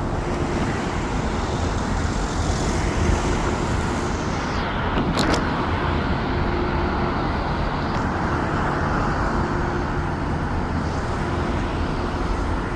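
Steady road-traffic noise: vehicle engine rumble and tyre noise, with one brief sharp click about five seconds in.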